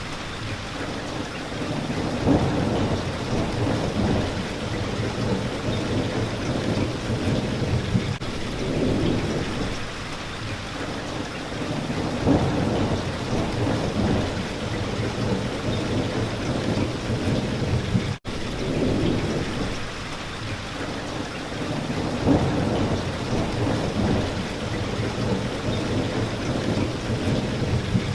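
Steady rain hitting a window, with low rumbles of thunder that swell and fade every few seconds. The sound cuts out for an instant about two-thirds of the way through.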